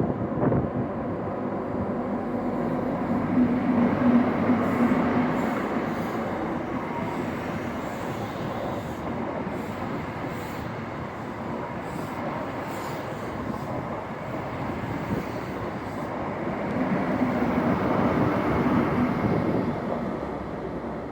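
Class 43 HST train passing with diesel power cars at both ends. The engine note swells as the leading power car goes by about four seconds in, the coaches rumble and click on the rails through the middle, and a second engine swell comes from the trailing power car near the end.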